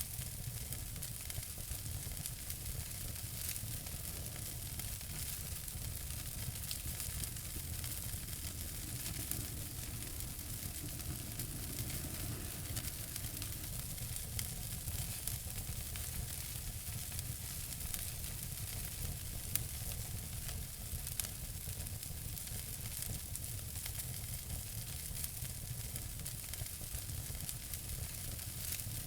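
Wood fire crackling in a fireplace: a steady hiss of dense small crackles over a low rumble, with a couple of slightly louder pops past the middle.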